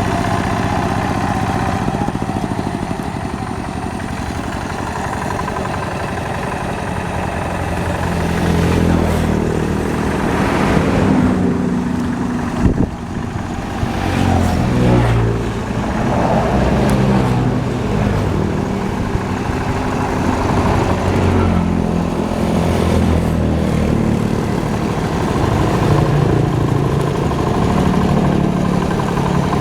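Hand tractor's engine running steadily, its pitch rising and falling from about eight seconds in as the load changes, with one sharp knock about two-fifths of the way through.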